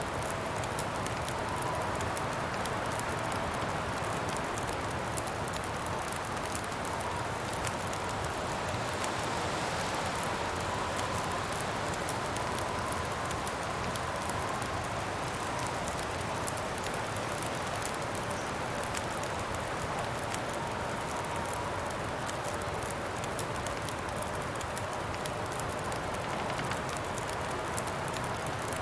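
Campfire crackling with many small pops over a steady rush of wind, with a faint wavering whistle in the wind.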